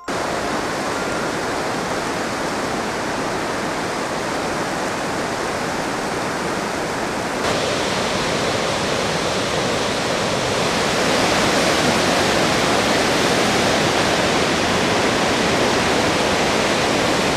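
Rushing water of the fast-flowing Humla Karnali River, a steady noise. It gets abruptly louder and brighter about seven and a half seconds in, and again about ten and a half seconds in.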